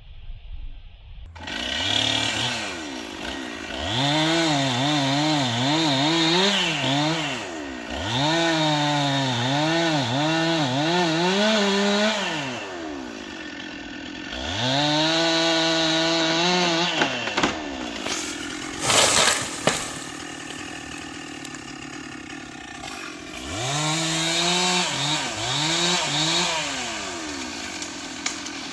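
Two-stroke chainsaw cutting wood in four bursts of a few seconds each, the engine pitch dipping and recovering as the chain bites, and dropping back to a lower running speed between cuts. About two-thirds of the way through there is a loud, sharp noise.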